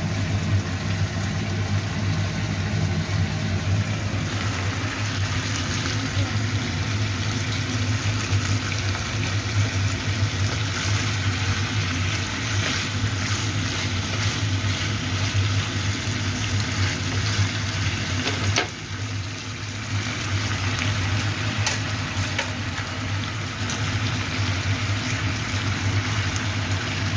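Food sizzling and crackling in a frying pan over a steady low hum, with a short knock and a brief drop in level about two-thirds of the way through.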